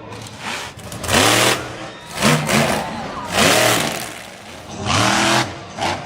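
Monster truck engine revved in a string of short throttle blips, four or five in all about a second apart, the pitch swooping up and back down with each one.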